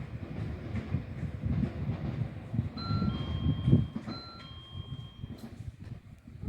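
A train rumbling along the rails, with a repeating two-note electronic chime, a high note then a lower one, starting about three seconds in.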